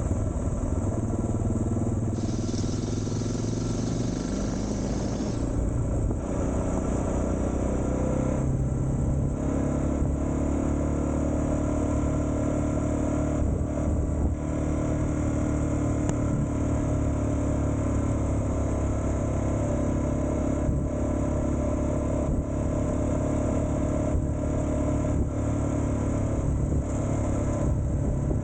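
Suzuki DR650's single-cylinder four-stroke engine running while riding, at a fairly steady pace with small rises and dips in pitch as the throttle changes. There is a stretch of hiss a few seconds in.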